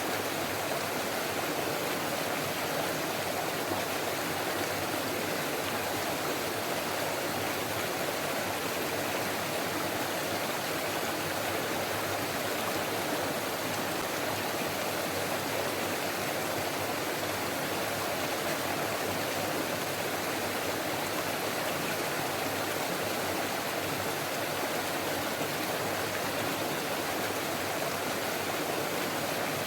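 Forest stream flowing over rocks: a steady, even rush and babble of water.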